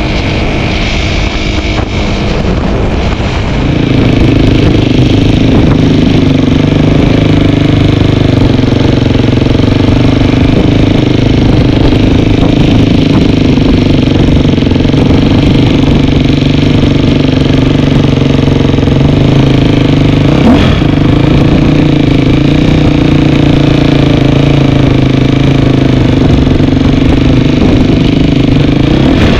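Dirt bike engine running under way. It picks up about four seconds in, then holds a steady pitch.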